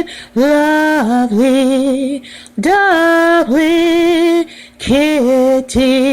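A woman singing solo a cappella: slow, held notes with vibrato, in several short phrases with brief breaks between them.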